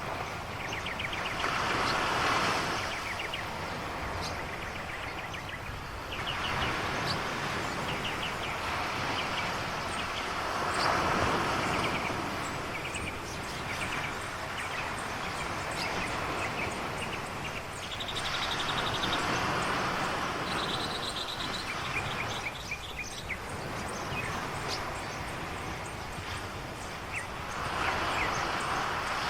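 Ocean waves washing ashore, the surf noise swelling and easing every several seconds, with high chirps and trills from birds or insects over it.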